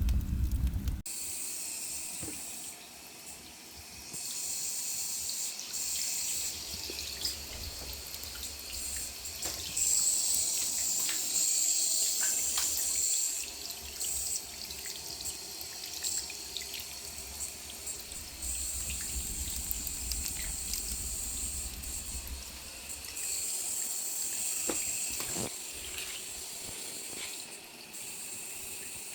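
Firewood burning in a traditional Korean agungi firebox, hissing steadily with scattered sharp crackles and pops.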